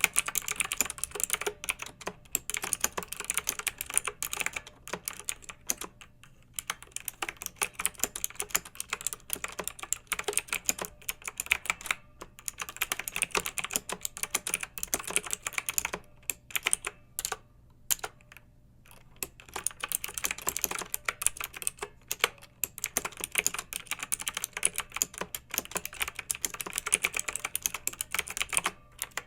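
Clicky mechanical keyboard being typed on quickly, a fast patter of keystrokes in runs broken by short pauses, the longest a little past the middle.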